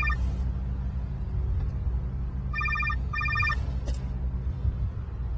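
Telephone ringing with a double trill: one burst at the start and another about two and a half seconds in, over a steady low rumble.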